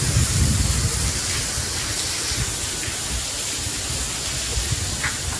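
Heavy rain pouring steadily onto thick vegetation, an even hiss. Gusty low rumbling of wind on the microphone, strongest in the first second or so.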